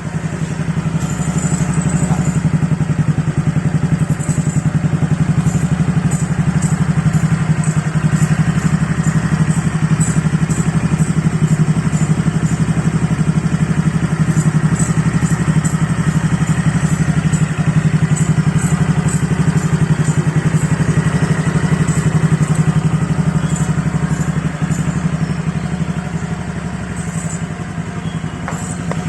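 Honda Vario 125 scooter's single-cylinder engine idling steadily through an ABF Racing Standar Racing V2 aftermarket stainless-steel exhaust, heard close up at the muffler.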